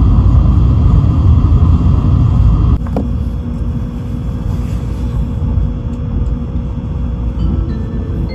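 Running noise of a Tokaido Shinkansen heard from inside the passenger car, a steady low rumble. About three seconds in it drops abruptly with a sharp click, and the rumble continues quieter.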